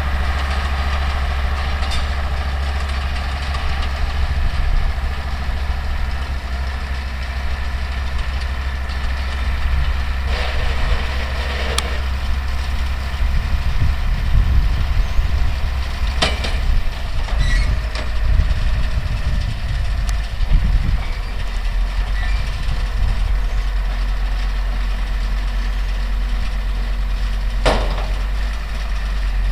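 Older Deutz tractor's diesel engine running steadily, with a few sharp clacks.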